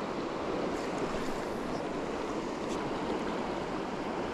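Steady rush of stream water flowing through a trout pool, with a few faint ticks about a second in and again near three seconds.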